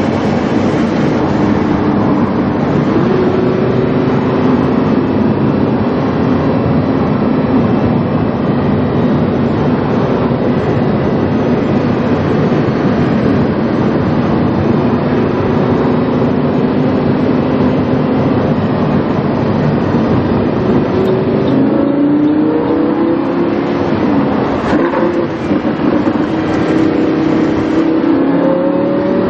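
Lamborghini Huracán's V10 engine through a PowerCraft aftermarket exhaust while driving: a steady engine drone for most of the time, then, from about three-quarters of the way through, the engine note rises and falls as the revs change.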